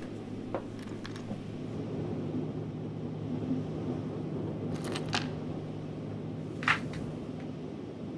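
A steady low hum with a few small metallic clicks and clinks: one about half a second in, two close together around five seconds, and a louder one near seven seconds.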